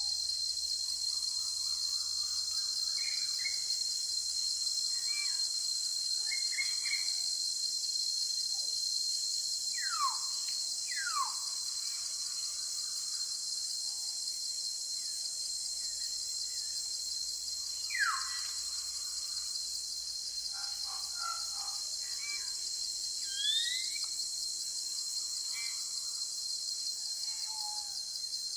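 Steady high-pitched chorus of insects, crickets or cicadas, that never lets up. Scattered bird calls sound over it, loudest a few quick downward-sweeping whistles and one short rising call near the end.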